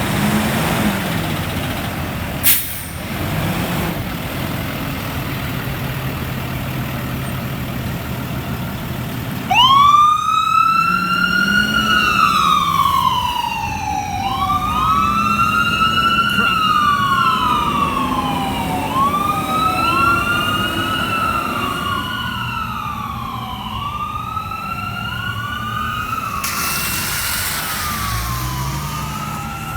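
A 2015 Freightliner M2 Braun rescue truck's diesel engine running, with one brief sharp burst about two seconds in. About ten seconds in, its electronic siren starts, wailing up and down in repeated cycles as the unit responds to a fire call.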